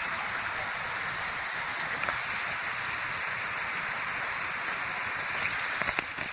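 Steady heavy rain falling in an even hiss, with a couple of sharp clicks near the end.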